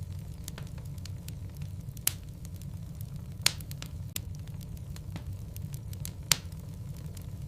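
Logs burning in a fireplace, crackling over a steady low rumble, with sharp pops about two, three and a half and six seconds in.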